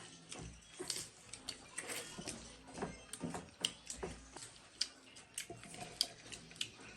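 Close-miked chewing of crispy fried buffalo meat: irregular crunches and small mouth clicks, several a second.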